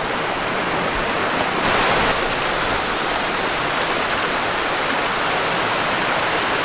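Rushing creek water, a steady noise that swells briefly about two seconds in.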